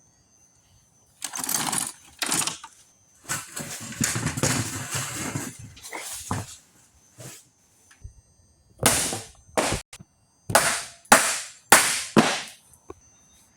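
A run of loud clattering knocks and bangs of hard objects being handled and set down, with a longer rattling stretch a few seconds in and several sharp hits near the end.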